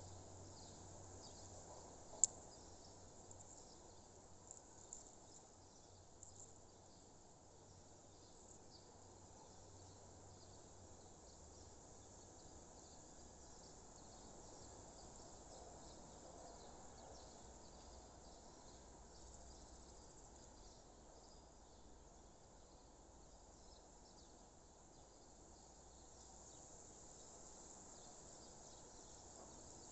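Faint outdoor nature ambience: a low steady hush with fine, high chirping of small creatures, and a single sharp click about two seconds in.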